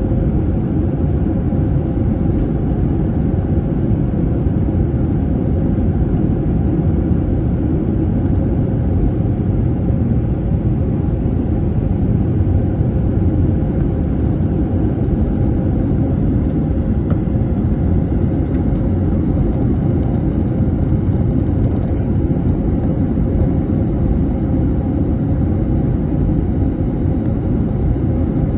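Steady low rumble of an airliner's engines and airflow, heard inside the passenger cabin, with a faint steady hum running through it.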